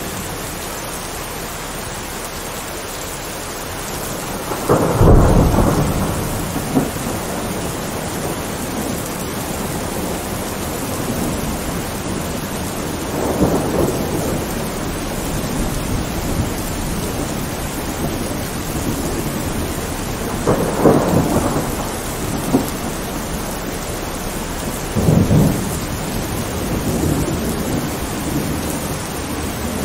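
Heavy rain falling steadily, with thunder rumbling four times, the loudest peal about five seconds in and the others roughly every four to eight seconds after.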